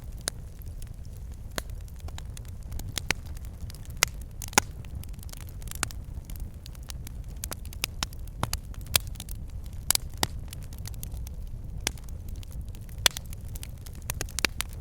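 Wood fire burning in a fireplace: a steady low rumble of flame with logs crackling and popping at irregular moments, a few pops louder than the rest.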